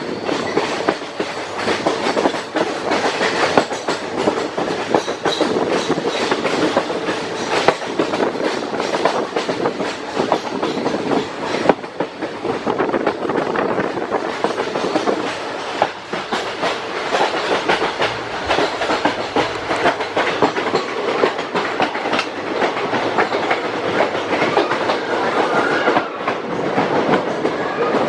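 Passenger train running along the track, its wheels clattering steadily over the rail joints.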